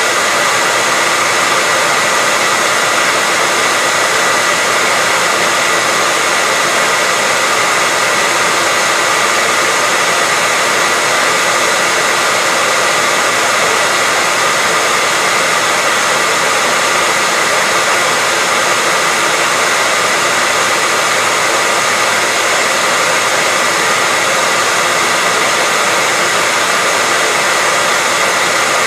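Hair dryer running steadily, an even, unbroken rushing blow of air with a whine near 2 kHz; it never changes in level or pitch.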